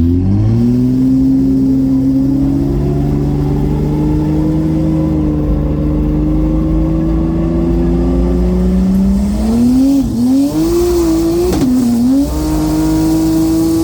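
BMW N54 inline-six with a single Precision 6466 turbo accelerating hard: the note jumps up at the start, then climbs slowly and steadily. About ten seconds in the pitch drops and recovers twice, as at gear changes, then holds steady.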